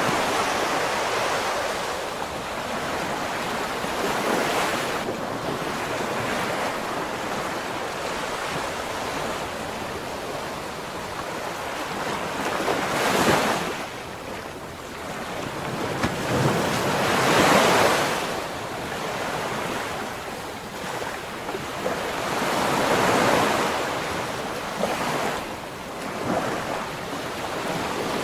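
Ocean waves washing in as a steady rush of surf, swelling louder every few seconds in the second half as waves break.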